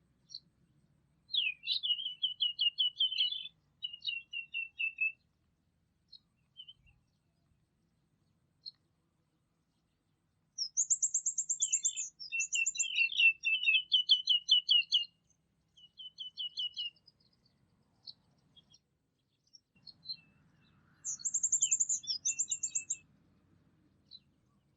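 A songbird singing in several bursts of fast, repeated high chirps and trills, with quiet gaps of a few seconds between the phrases.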